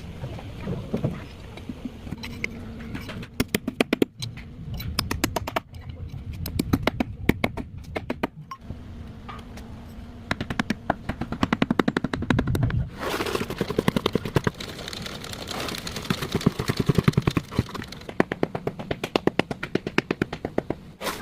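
Rapid mechanical hammering in repeated bursts with short pauses between them, like a power tool hammering.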